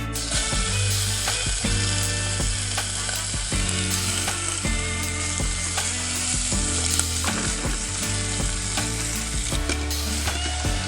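Food frying in a hot pan, a steady crackling sizzle.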